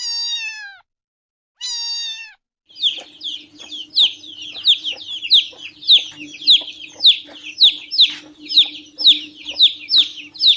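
Domestic cat meowing twice, each meow falling in pitch. From about three seconds in, chicks peep over and over in high falling chirps, about two a second.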